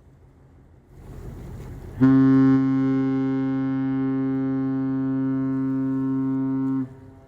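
Ship's horn sounding one long, steady blast of about five seconds. It starts sharply about two seconds in, is a little louder at first, and cuts off near the end.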